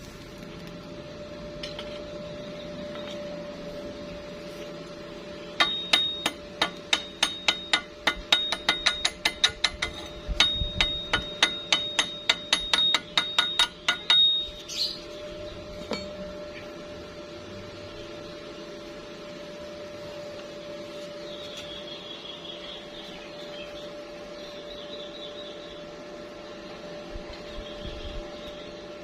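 A hammer striking steel in a quick run of blows, about three or four a second for some eight seconds, each blow ringing with a high metallic note. A steady hum runs underneath.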